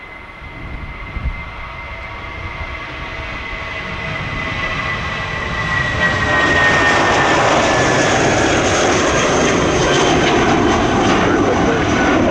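Jet airliner's engines rising in loudness as the aircraft comes closer, then holding loud. A high whine in the engine sound slides gently down in pitch about halfway through as the plane passes.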